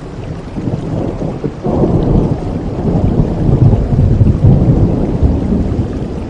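Steady rain with a rumble of thunder that swells up about two seconds in, peaks midway and slowly fades.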